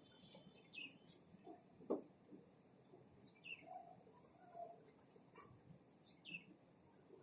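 Near silence with a few faint, short bird chirps, each a quick falling note, about every three seconds, and a couple of light clicks.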